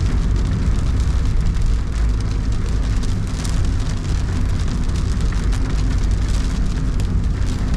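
Steady road rumble inside a moving car, with rain hitting the car's body and windscreen as many small ticks over it.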